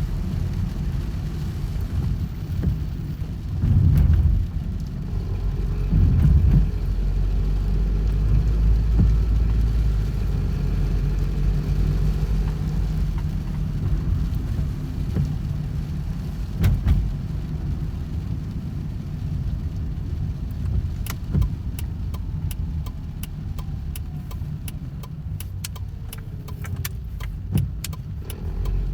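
Car engine and road noise: a steady low rumble with louder surges about four and six seconds in, and scattered sharp ticks in the last third.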